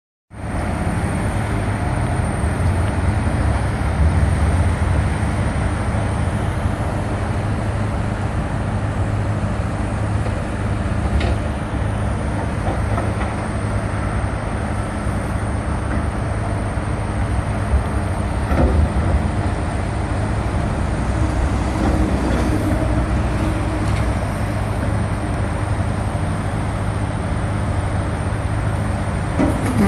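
Heavy construction equipment running steadily, a continuous low engine rumble.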